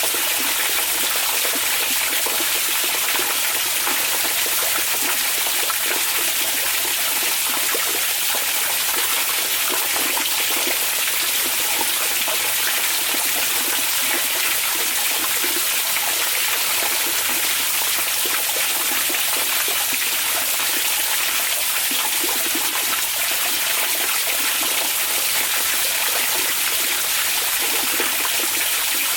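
Hot spring (onsen) water running steadily, a constant, even rush of flowing water with no breaks.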